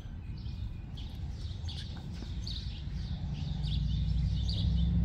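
Small birds chirping over and over in short, high notes, several a second, with a low rumble that grows louder toward the end.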